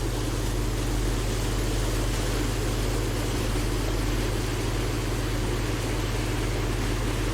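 Steady, even rushing noise with a constant low hum underneath, unchanging throughout.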